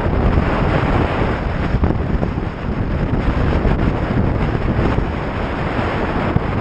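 Strong wind buffeting the microphone, a loud, steady low rumble of wind noise.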